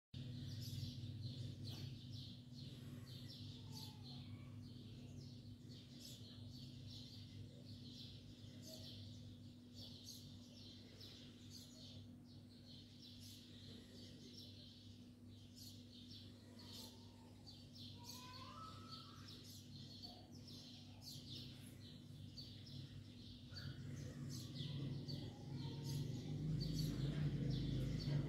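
Faint birds chirping, with many short high chirps throughout, over a steady low hum that grows louder near the end.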